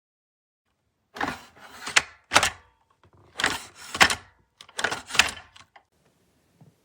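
A series of short knocks and clatters with sharp clicks, about five in four seconds, then fading to a few faint ticks.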